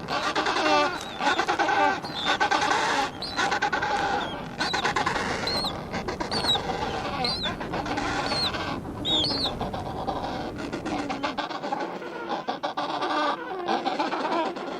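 A flock of birds calling all at once: many overlapping nasal calls, with a short high chirp repeating about once a second above them.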